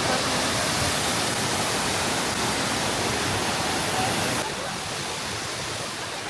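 Düden Waterfall's water rushing steadily, which drops abruptly to a lower level about four seconds in.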